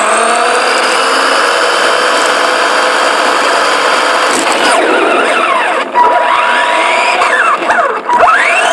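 RC car's motor whining at speed over rough tyre noise, picked up close on the car itself; the pitch climbs slowly through the first half, then swings up and down several times as the car speeds up and slows.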